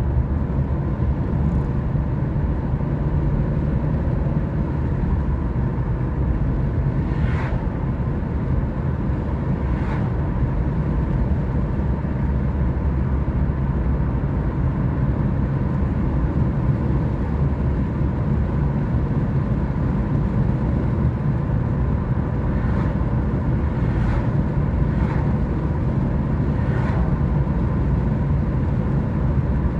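A car driving at a steady speed: a constant low rumble of engine and road noise, with a few faint short knocks around 7 and 10 seconds in and several more near the end.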